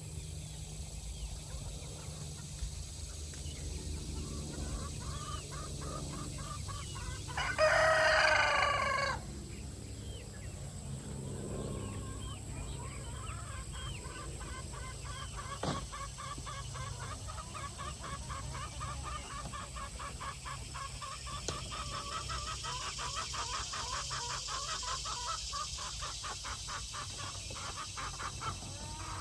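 A backyard chicken flock clucking, with one rooster crowing loudly once about a quarter of the way in. A rapid run of hen calls carries on through the second half, and there is a single sharp click just past the middle.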